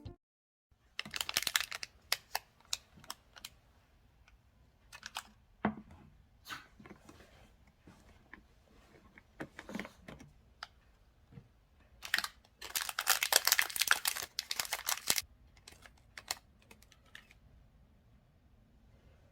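Slime and its packaging being handled, heard as two bursts of rapid crackling clicks with scattered single taps between them.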